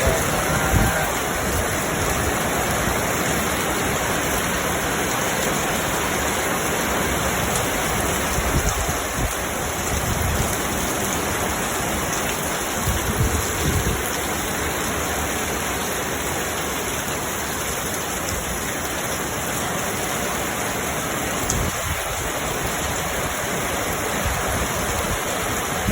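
Heavy rain pouring down in a steady, dense hiss, with a few brief low thumps here and there.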